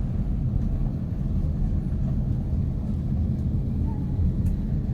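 Steady low rumble of Airbus A350-900 cabin noise, engines and air systems heard from inside the passenger cabin, with the aircraft on the ground before takeoff.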